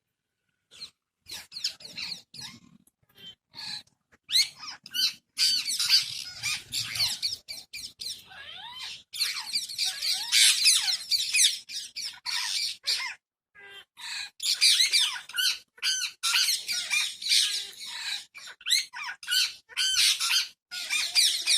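A flock of wild parrots squawking and chattering, many birds calling over each other. A few calls at first, building to a near-continuous din about four seconds in, with brief drop-outs.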